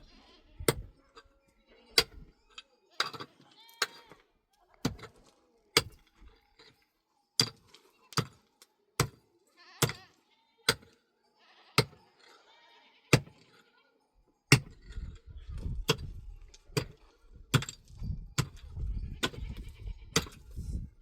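Goats and sheep bleating in short calls, with sharp knocks at irregular intervals. A low rumble comes in about two-thirds of the way through.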